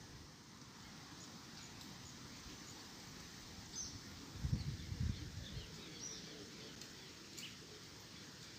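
Scattered short bird chirps over a steady outdoor background hiss in a woodland. About halfway through, a brief low rumbling bump or two is the loudest sound.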